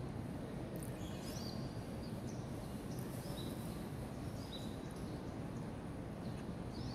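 Small birds chirping: short high calls about once a second over a steady low outdoor hum.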